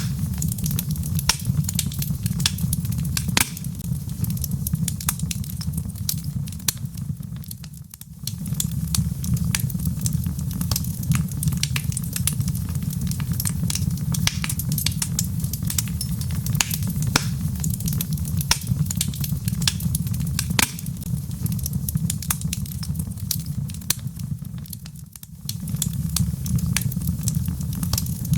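Wood fire burning in a fireplace: a steady low rumble with dense, sharp crackles and pops from the burning logs. It briefly fades twice, once about a third of the way in and again near the end.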